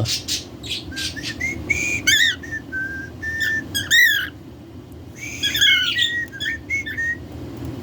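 Pet budgerigars chirping and warbling: a run of short, high whistled chirps with little clicks, easing off briefly just past the middle and then picking up again.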